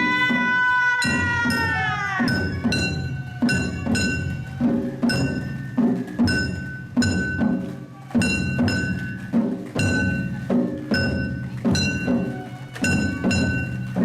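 Japanese festival float music (hayashi): drums struck in a steady beat about twice a second, with a high flute-like note held over them. About two seconds in, a held high note slides downward before the beat takes over.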